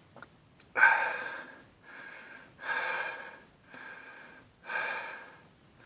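A person breathing hard close to the microphone: three louder breaths alternating with two quieter ones, each about a second long.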